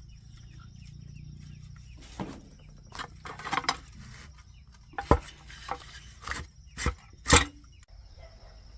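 Irregular knocks and clanks, about eight of them spread over several seconds, the loudest one near the end.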